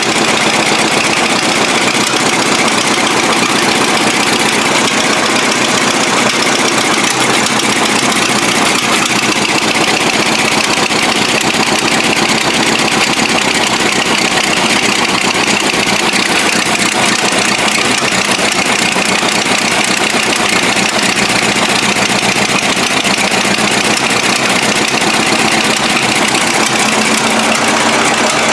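Model T Ford four-cylinder side-valve engine of a homemade tractor idling steadily, freshly started after standing unused since last summer.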